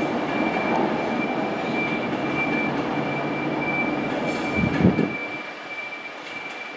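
Class 390 Pendolino electric train pulling out of the platform: steady running noise with a thin high whine, a brief low surge about four and a half seconds in, then the sound falls away as the train draws off.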